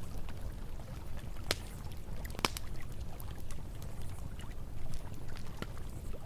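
Campfire crackling with scattered sharp pops, the loudest about two and a half seconds in, over the steady low rush of flowing water.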